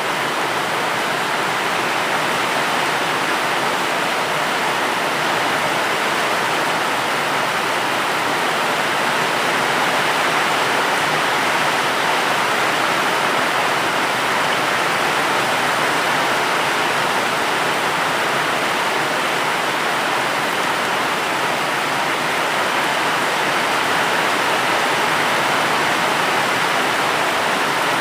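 Steady, even rain noise, a dense hiss with no distinct drops or changes.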